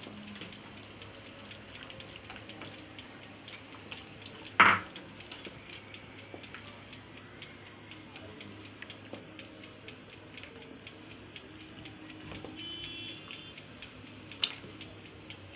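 Utensil stirring soup in a cooking pot as a flour and cornstarch slurry is added to thicken it, with small scrapes and taps throughout. A sharp clink of the utensil against the pot comes about four and a half seconds in, and another near the end.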